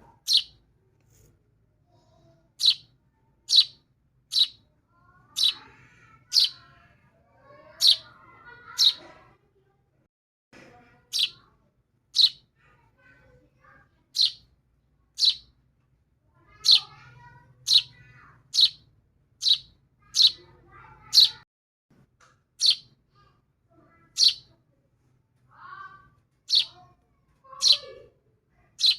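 Baby birds chirping: short, sharp, high chirps, roughly one a second at uneven spacing.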